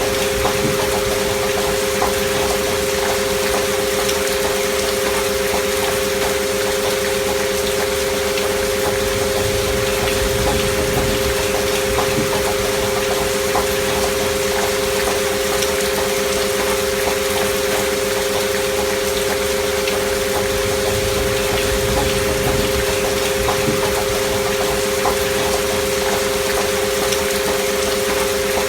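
Two steady pure tones close together near 500 Hz, held without change over a bed of steady rain noise with small scattered drop ticks; a sound-healing 'frequency' track of sine tones mixed with rain.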